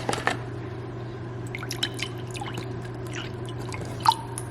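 Liquid being poured and then dripping in small scattered drops and splashes, over a steady low hum.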